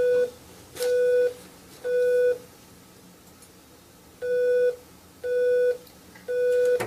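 Electronic beeps: six half-second beeps at one steady mid pitch, in two groups of three about a second apart with a pause between the groups. They sound like a test sound played to a child whose hearing devices have just been switched on.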